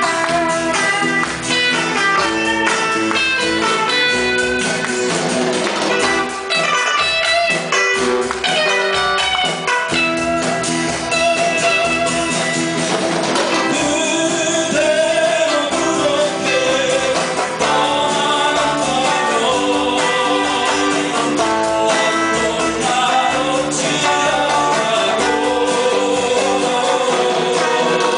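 Amateur band playing Korean 7080-style pop-rock live, a guitar carrying a melodic line of quick single notes over bass and drums, giving way to longer held notes about halfway through.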